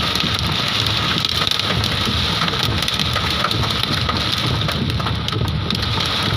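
Hailstorm with heavy rain: hailstones and raindrops pelting hard surfaces in a steady dense rush, full of small sharp impacts.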